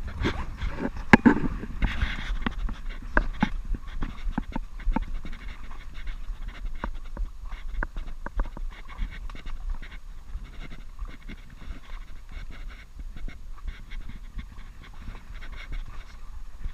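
A man panting hard and fast, with many irregular knocks and clicks over a low rumble, loudest in the first two seconds.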